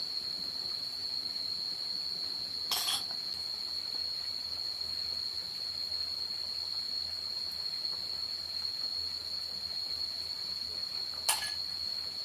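Steady high-pitched insect chorus, a single unbroken drone. Two short clinks or knocks, one about three seconds in and one near the end.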